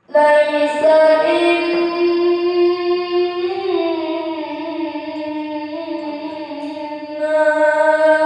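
A pesantren student's solo voice chanting melodically, unaccompanied. It comes in suddenly and holds long, drawn-out notes that glide slowly from one pitch to the next.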